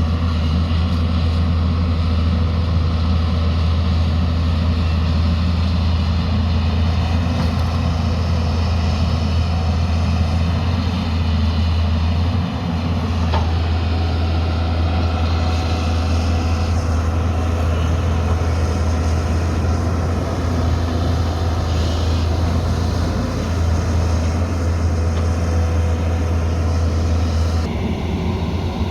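Diesel engine of heavy earthmoving machinery running steadily with a deep, even drone, with a brief dip about halfway through.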